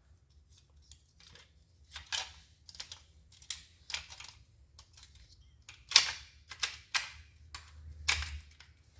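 Irregular clicks, taps and light rattles of plastic copier drive-unit parts (gear housing cover and wiring) being handled and fitted by hand, with the sharpest click about six seconds in.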